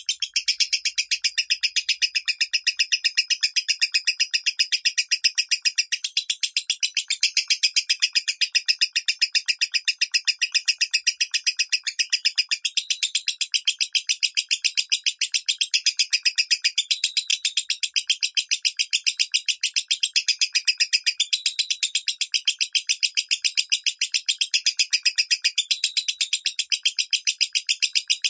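Lovebird singing in the 'minor' voice style: a long unbroken run of rapid, evenly repeated chirping notes with no pause.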